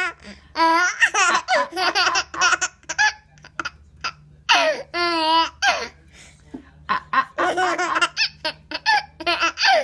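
A baby of about nine months laughing in a run of short, high-pitched bursts with brief pauses between them.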